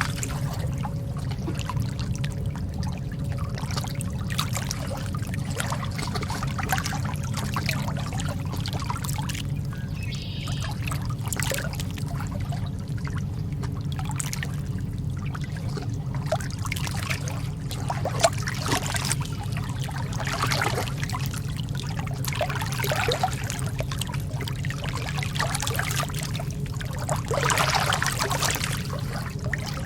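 Lake water lapping and trickling at the shore in small irregular splashes, over a steady low rumble.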